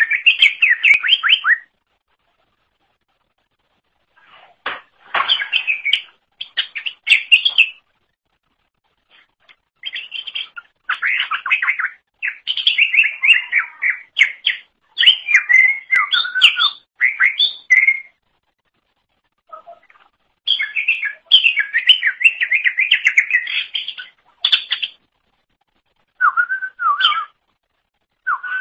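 Greater green leafbird (cucak ijo) singing: rapid, varied chirps and whistled notes in bouts of a few seconds, broken by short pauses.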